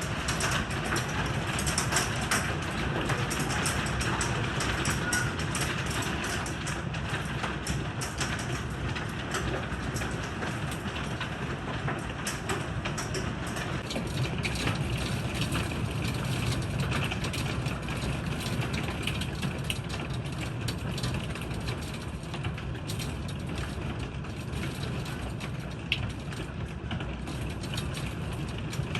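Heavy thunderstorm rain with hail: a steady rushing hiss full of sharp ticks of stones striking hard surfaces, the ticks thinning out in the second half.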